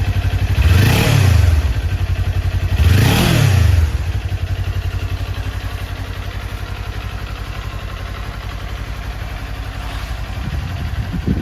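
2022 Kawasaki Ninja 400's 399 cc parallel-twin engine revved twice, the pitch rising and falling each time, then settling to a steady idle.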